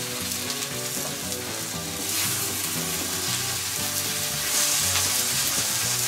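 Turkey steaks sizzling on a charcoal grill grate, with mushrooms frying in a pan on the grill as a wooden spatula stirs them. The sizzle grows louder about two seconds in.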